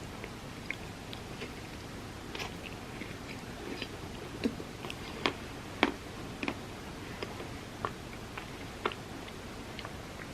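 A person chewing and eating a peanut butter dessert, with scattered short mouth clicks and bites over a steady background hiss.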